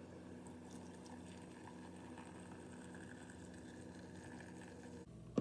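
Faint steady low hum with a few faint ticks, ending in a single sharp knock.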